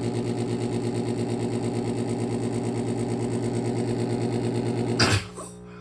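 2012 Pelonis Elite heat pump running in defrost with a malfunction: a loud, fast-pulsing mechanical hum, then about five seconds in a sudden loud whoosh, after which the running sound drops away to a quiet, steady low hum.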